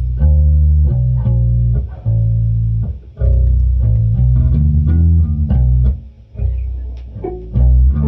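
Bass guitar playing a riff of low plucked notes, each held for a moment before the next, with short breaks about three and six seconds in.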